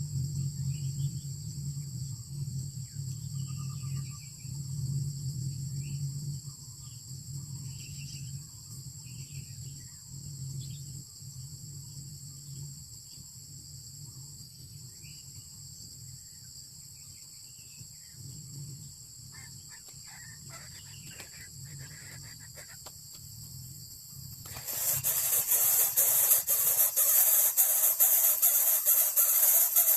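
Faint, scattered short bird chirps over a steady high-pitched hiss and a low hum. About five seconds before the end a loud steady hiss starts abruptly and covers everything.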